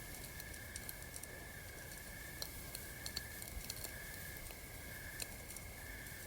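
Campfire crackling in scattered sharp pops and snaps, over a steady high chirring of night insects that swells about once a second.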